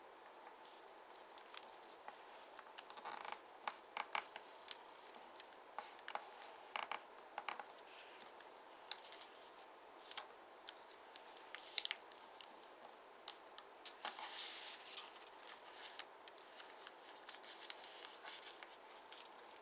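Square origami paper being folded and creased by hand: scattered crinkles, taps and scrapes of fingers pressing and sliding along the folds, with a longer rustle about fourteen seconds in.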